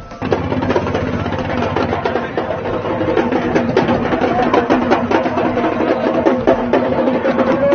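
Fast, dense drumming with a steady held tone underneath. It cuts in abruptly just after the start.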